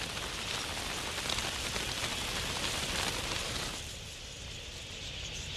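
Dense, even hiss of a large flock of birds massed together, with no single call standing out; it thins in the middle pitches about two thirds of the way through.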